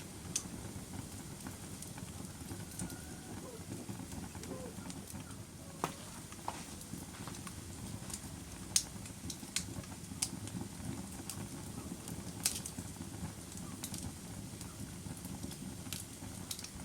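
Log fire burning: a steady low rumble of flame with sharp crackles and pops scattered irregularly throughout, the loudest pops about nine and twelve seconds in.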